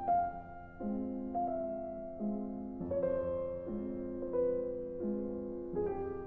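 Background music: slow, soft piano with notes struck roughly once a second and a melody stepping slowly downward.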